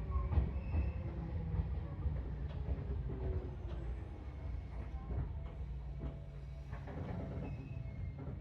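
Seibu 4000 series electric train slowing into a station, heard from inside the carriage: a low running rumble with scattered wheel clicks and a tone sliding down in pitch, growing quieter as it comes to a stop and leaving a steady low hum.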